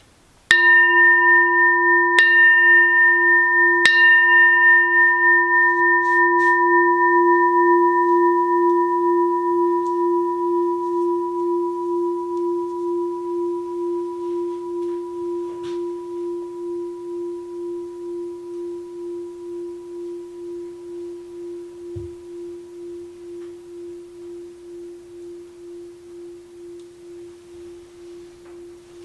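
A 6-sun Daitokuji rin, a Buddhist bowl bell whose bottom is dented from being dropped, is struck three times about a second and a half apart. It then rings on in one long, pulsing tone that slowly fades.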